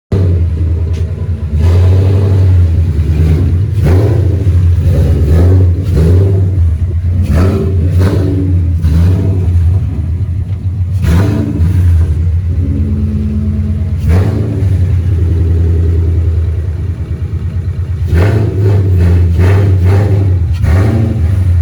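Loud car engine running close by with a deep exhaust, given short throttle blips every second or two as the car is moved at low speed.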